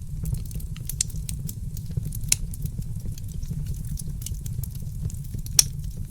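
Fireplace fire crackling: a steady low rumble of flames with irregular small pops and snaps, two louder snaps about two seconds in and again near the end.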